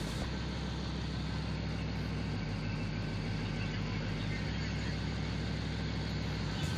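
A 5.3-litre LS V8 idling steadily through dual glasspack exhausts, with slight shifts in its low note about two and a half and four and a half seconds in.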